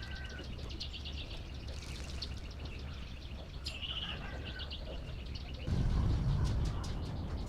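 Small birds chirping and twittering over a steady low hum, with a louder low rumble coming in about three-quarters of the way through.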